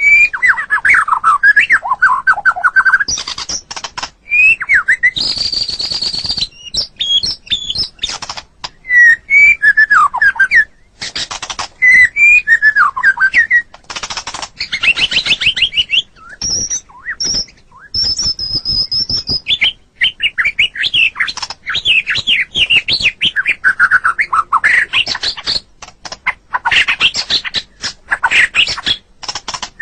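White-rumped shama (murai batu) singing a long, varied song of rapid trills, sweeping notes and high whistles, phrase after phrase with short breaks between.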